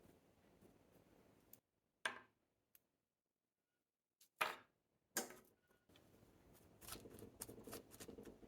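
Faint close-up handling sounds from potting succulents: a few separate sharp scraping clicks, then a quick run of crisp clicks and rustles near the end.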